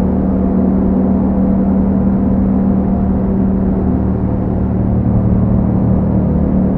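2021 Yamaha MT-07's parallel-twin engine running through an Akrapovic exhaust, holding a steady engine speed while the bike is ridden.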